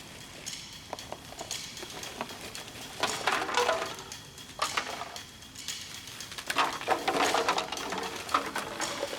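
Rustling and clattering of clean trash being handled and dropped on the ground, in several clusters, busiest in the second half.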